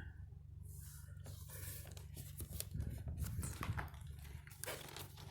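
Hands handling a vintage plastic toy airplane playset: scattered clicks, scrapes and rustles of plastic being moved and turned over.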